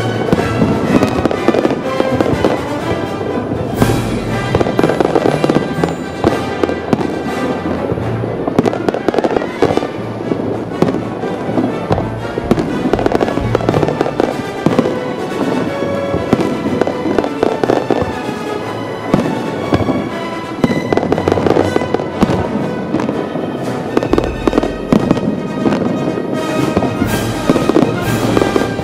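Aerial fireworks bursting in quick, continuous succession, with music playing under the bangs.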